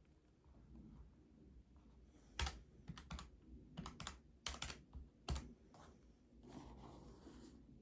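Faint, irregular run of about a dozen key taps a couple of seconds in, lasting three to four seconds, followed by a short soft rustle near the end.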